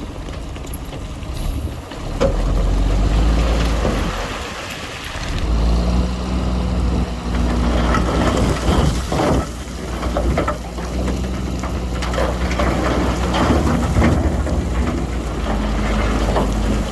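A bulldozer's heavy diesel engine runs under load, dipping for a moment and then building again. Over it comes a continuous crunching rattle of rock and soil being pushed.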